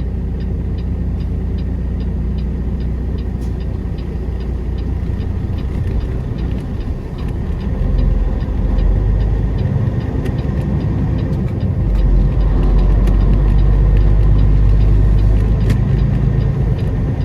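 Semi truck's diesel engine running under way, pulling harder about halfway through and again near the end, with a regular faint ticking over it.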